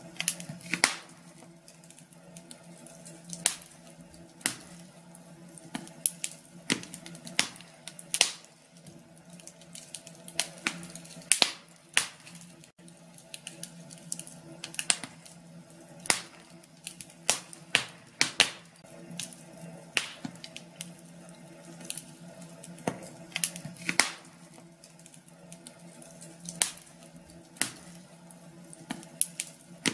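Fire burning in a fireplace, crackling with irregular sharp pops, some louder than others, over a faint steady hum.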